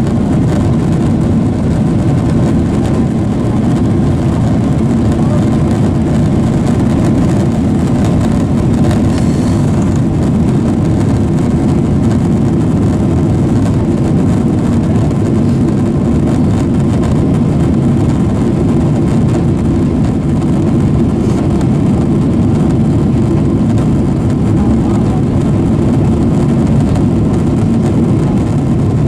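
Steady roar of jet engines and rushing air heard inside the cabin of a Boeing 767-400ER, deep and unchanging in level.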